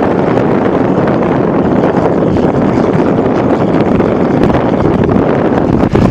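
Storm wind buffeting the microphone: a loud, steady rushing rumble with no clear pitched engine note.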